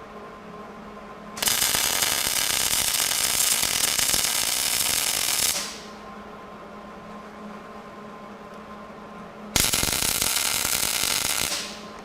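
Welding arc crackling in two bursts on the steel brackets of a Fox Body Mustang rear axle housing: a weld of about four seconds, then a shorter one of about two seconds near the end, each starting sharply and tailing off as the arc breaks.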